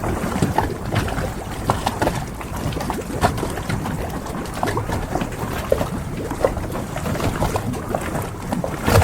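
Harbour ambience: water lapping and sloshing, with many small knocks and clicks scattered through it and a stronger knock at the very end.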